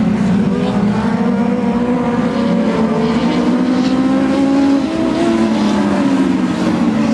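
Several dwarf race cars' motorcycle engines running together at racing speed, their overlapping engine notes drifting up and down in pitch.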